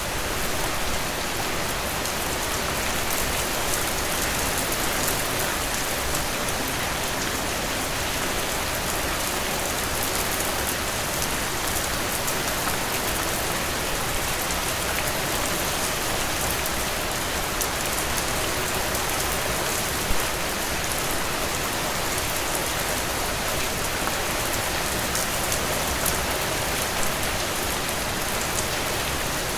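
Heavy, steady downpour: dense rain hiss with scattered drops pattering on a surface, a small drop louder than the rest about twenty seconds in.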